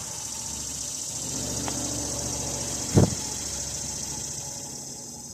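A motor vehicle's engine passing by, swelling and then fading away, with one sharp knock about three seconds in. Insects keep up a steady high chirring throughout.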